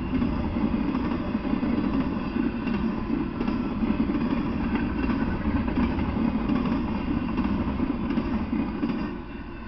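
Double-stack intermodal freight train cars rolling past, wheels on the rails making a steady rumbling clatter. The sound drops off abruptly near the end as the last cars go by.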